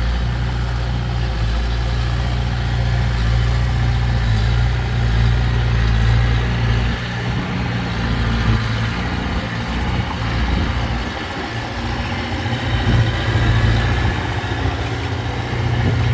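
Diesel engine of heavy earthmoving equipment running steadily; its low drone thins out for a few seconds around the middle, then comes back strong.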